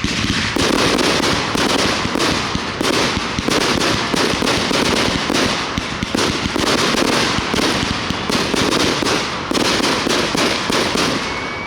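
Aerial fireworks going off in a rapid, continuous barrage of overlapping bangs and crackles, with no pause between shots.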